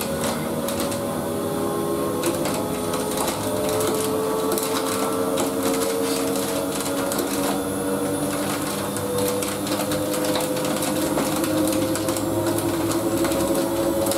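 Siemens Siwamat washing machine running, its drum motor whining and slowly rising in pitch as the drum speeds up, with faint clicking over it.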